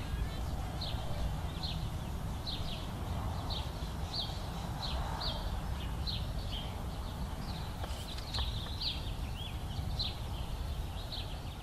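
A bird chirping over and over, short high chirps about two a second, over a low steady outdoor rumble.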